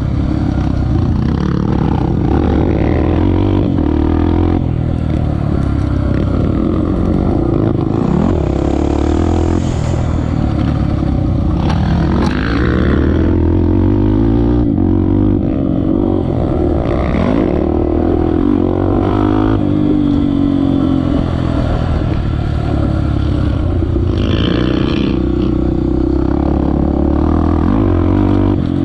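Honda XR250 Tornado's single-cylinder four-stroke engine running as the bike is ridden, its pitch rising and falling again and again as the throttle is opened and closed.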